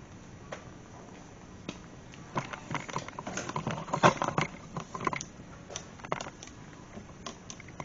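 Scattered light clicks, taps and rustles of hands working about the car, thickest in the middle.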